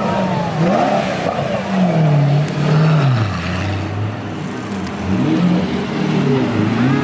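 Car engine revving and running: its pitch rises and falls several times, settles to a lower steady drone for a second or two in the middle, then revs up again near the end.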